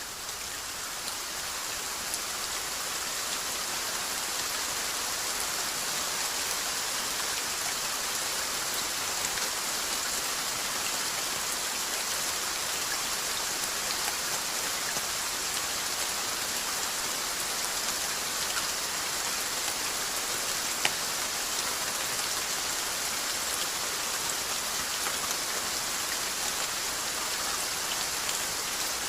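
Steady rainfall: an even hiss of raindrops on a surface, with scattered individual drop ticks and one sharper tick about two-thirds of the way through.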